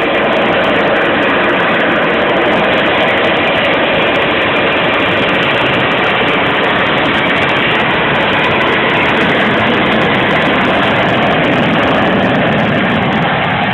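The Shockwave jet truck's three jet engines running: a loud, steady jet noise.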